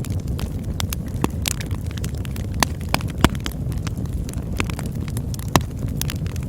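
Campfire burning: a steady low rumble of flames with irregular crackles and sharp pops of burning wood, a few louder snaps scattered through.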